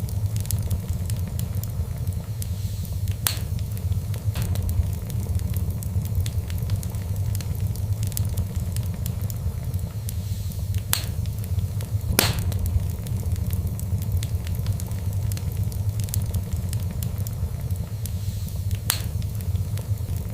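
Wood fire crackling over a steady low rumble, with a few sharper pops; the loudest comes about twelve seconds in.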